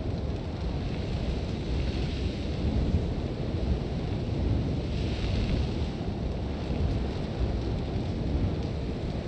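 Sandstorm wind: a steady low rumbling buffet with a hiss of blowing sand that swells about two seconds in and again around five seconds in.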